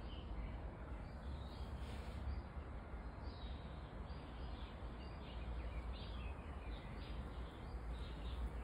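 Small birds chirping now and then in short, scattered calls over a steady low outdoor rumble.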